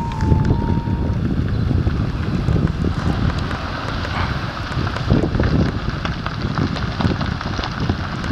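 Explosive ash eruption of Ebeko volcano heard close up: a continuous low rumble with many sharp crackles running through it, and wind buffeting the microphone.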